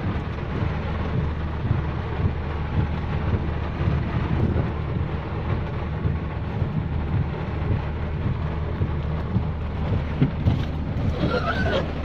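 Storm wind buffeting the microphone in a steady low rumble, with the hiss of heavy rain.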